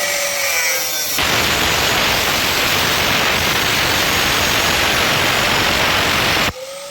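Angle grinder running free, its motor pitch sagging as the disc is pressed into metal. It then grinds with a loud, harsh rasp that drowns the motor for about five seconds. Near the end the disc comes off the work and the motor whine climbs back to speed.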